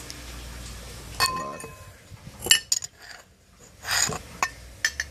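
Glass collection jars clinking against each other as they are handled: one knock that rings briefly about a second in, then a run of sharper clinks.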